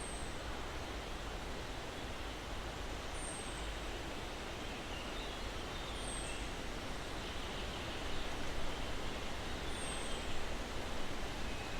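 Steady breeze rustling through pine trees. A high, thin, downward-sliding bird call repeats about every three seconds, with fainter chirps lower down. The wind grows gustier in the last few seconds.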